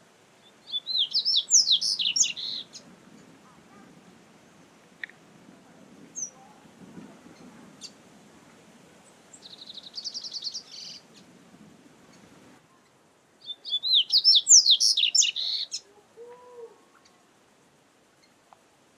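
Double-collared seedeater (coleiro) singing: two loud, quick warbling phrases of about two seconds each, one near the start and one about two-thirds through, with a softer short trill between them.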